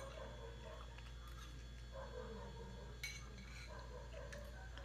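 Faint sounds of a person eating: chewing with a few light clicks, the sharpest about three seconds in.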